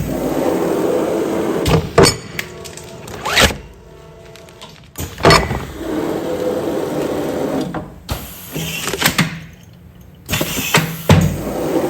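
Automatic container sealing machine running a continuous sealing cycle: a motor runs steadily for about two seconds, then sharp clunks and clicks follow, repeating about every five seconds.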